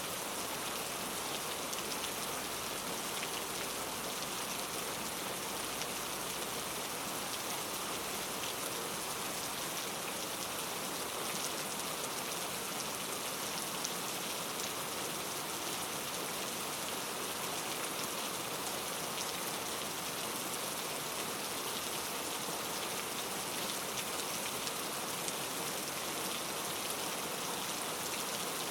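Steady rain falling, a continuous even hiss with fine scattered drop ticks.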